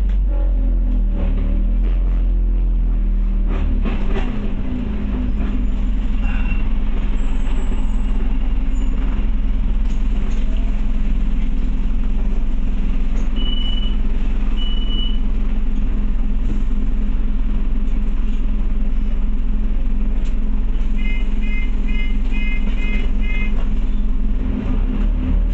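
Scania OmniCity bus's diesel engine running steadily, heard from inside the passenger cabin. Two short high beeps sound about halfway through, and a quick run of short beeps comes near the end.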